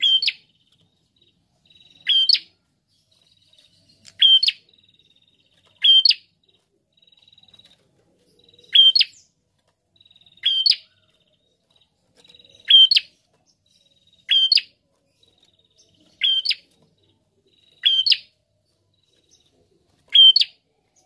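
Caged prenjak calling: a short, sharp chirp repeated about every two seconds, about ten times, with a faint thin trill between some of the calls.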